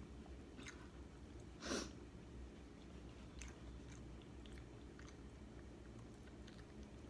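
A person chewing chicken wing meat with faint, scattered mouth clicks and smacks, then biting into the wing again near the end. One brief, louder noise comes about two seconds in.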